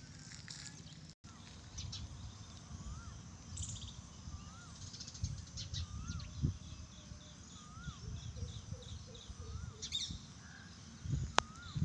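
Birds calling: one repeats a short rising-and-falling whistle about once a second, with thin high chirps in between. Underneath is a low, irregular rumble of wind on the microphone.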